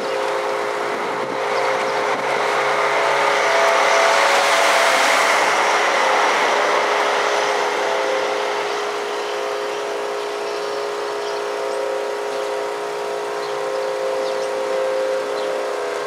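Federal Signal Model 5 outdoor warning siren sounding a steady tone, with road noise from a passing vehicle swelling over it about four to five seconds in.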